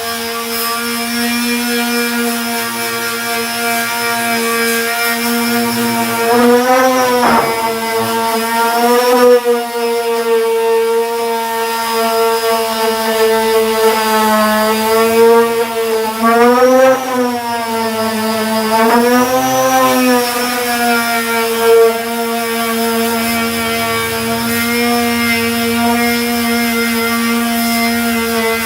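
Electric disc sander with a 240-grit disc sanding body filler: a steady high motor whine whose pitch bends briefly a few times in the middle as the load on the disc changes.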